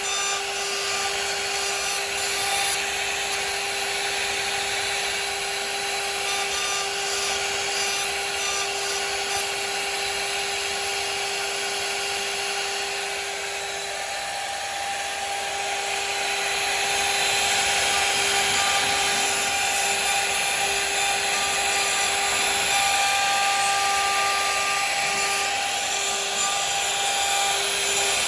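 CNC router spindle running with a steady whine while its bit cuts into wood, the cutting noise getting louder about two thirds of the way through.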